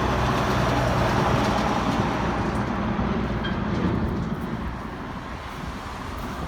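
Highway traffic: the rushing tyre and engine noise of vehicles driving past close by, loudest at first and easing off about four seconds in as they move away.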